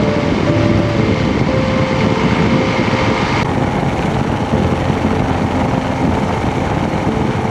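Motorcycle riding noise: a Kawasaki KLR650's single-cylinder engine running under a steady rush of road and wind noise.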